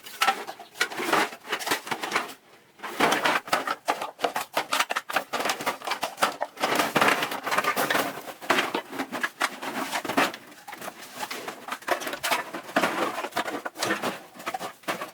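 A dense, irregular jumble of small clicks and knocks in quick succession, like hard objects being handled and clattering together, with a brief lull about two and a half seconds in.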